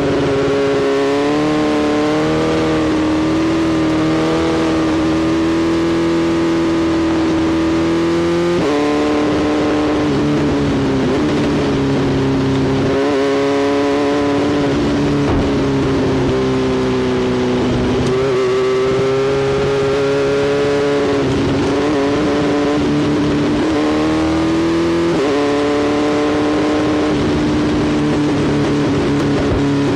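Motorcycle engine running continuously at fairly steady revs. Its pitch drifts gently up and down and jumps abruptly a few times.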